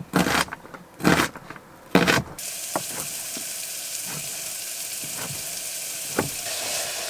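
Three short handling knocks, then, about two and a half seconds in, a pan suddenly starts sizzling. The frying goes on steadily with occasional small pops.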